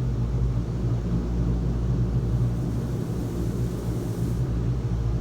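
High-pressure wash pass of a WashTec SoftCare 2 Pro touchless car wash heard from inside the car: a steady low drone under a pretty loud hiss of water jets on the body. The hiss brightens for a couple of seconds near the middle.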